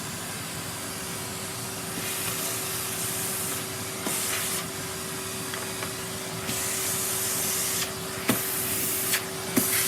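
Henry vacuum cleaner running with a steady motor whine and a rushing suction hiss. The hiss swells and drops as the nozzle works through wood shavings, with a few sharp clicks near the end.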